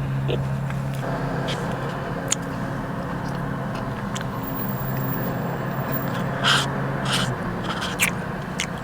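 A steady low motor hum, part of which drops out about seven seconds in, with scattered short clicks and scrapes of a spoon in a frozen-dessert cup.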